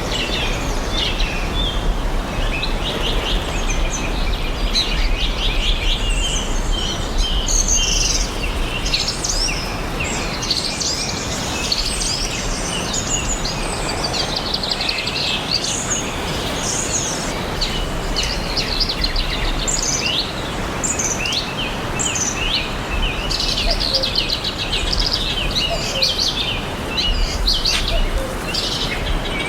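Several songbirds chirping and singing, with short trills and rapid chirp series, over a steady background hiss.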